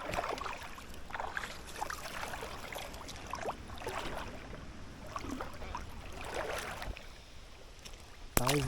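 Water sloshing and splashing in repeated bursts about a second apart.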